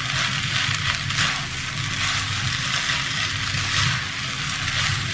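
Chicken fried rice sizzling in hot oil in a pan over high heat, with a spatula stirring and scraping it through as it is mixed.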